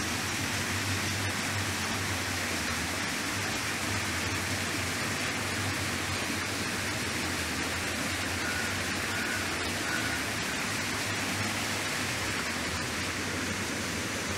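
Steady, even hiss with a low hum underneath, and a few faint short high tones about nine seconds in.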